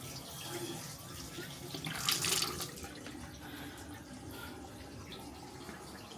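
Cold basin taps left running into the basin as the cold water tank drains. A short louder splash or rush comes about two seconds in.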